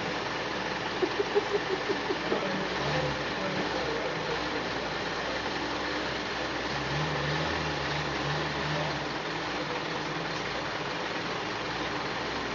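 A vehicle engine running in floodwater over a steady hiss. Early on there is a quick run of short knocks, and from about 7 to 9 s the engine note pulses.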